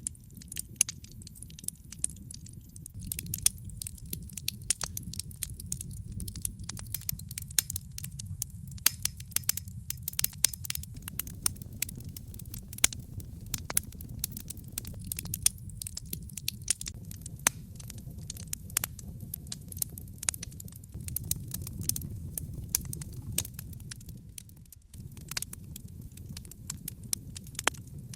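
Wood logs burning in a fireplace, crackling: many sharp pops and snaps over a steady low rumble of flame.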